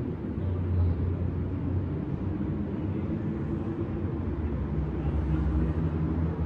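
Steady low rumble of city traffic, with a low engine hum running through it.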